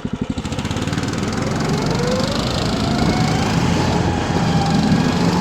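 Engine of a Tofalar Long motorized snow dog, a tracked snow tow unit, going up from idle: its pitch rises over a second or so and then holds at higher revs, getting louder as it pulls away.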